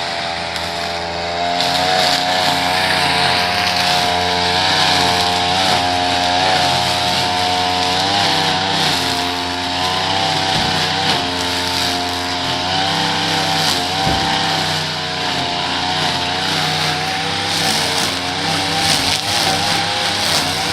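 Small petrol engine of lawn-care equipment running steadily under load, its pitch wavering slightly, over a steady hiss.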